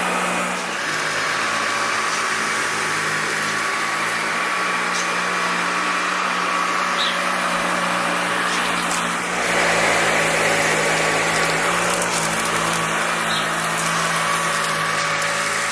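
Dyson ball upright vacuum cleaner running steadily as it vacuums dirt off a carpet, getting a little louder about nine and a half seconds in.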